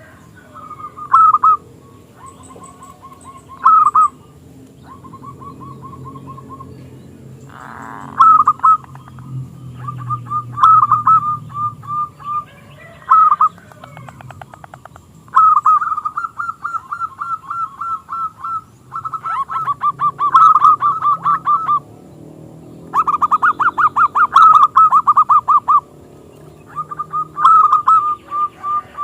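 Zebra dove (perkutut) cooing: repeated bursts of quick, staccato notes, some phrases drawn out into long runs of rapid strokes.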